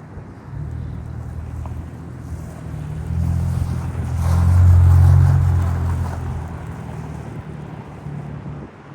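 Airliner's jet engines rumbling as it passes. The sound grows louder to a peak about halfway through and then fades, with some wind noise on the microphone.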